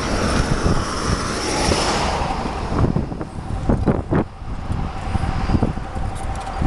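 Freight train cars rolling past on the rails, a steady loud rumble with a faint high whine, and low buffeting from wind on the microphone.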